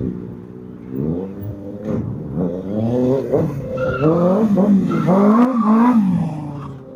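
Car engine revved in a series of blips, its pitch climbing and falling with each one. The revs get louder and come quicker in the second half, then die away near the end.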